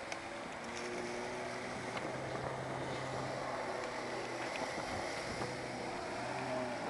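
Jet ski running on the water: a steady engine hum under a wash of water and wind noise on the microphone.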